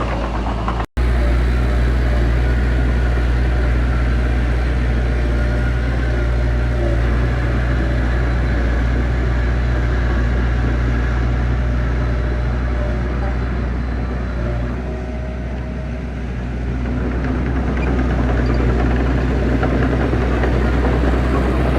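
Heavy diesel engine of earthmoving machinery running steadily with a deep, even hum. It cuts out for an instant about a second in, and its level dips slightly for a couple of seconds about two-thirds of the way through.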